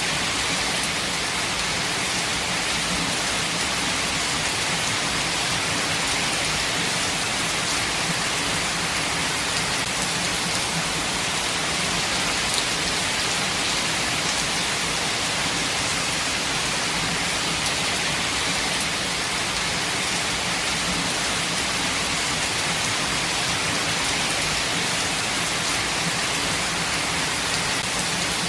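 Steady rain falling: an even, unbroken hiss of many drops that neither builds nor fades.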